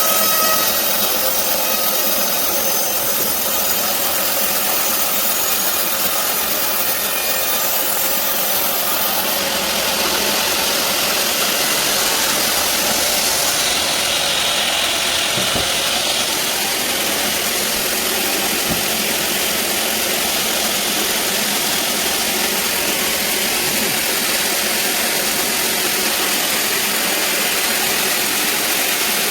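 Band sawmill running, a loud steady mechanical noise with no break; its highest hiss thins out about ten seconds in.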